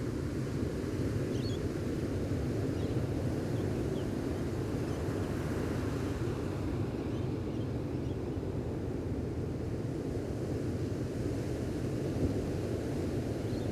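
Gentle ocean waves on the shore, a steady low rush of surf, with a few faint bird chirps.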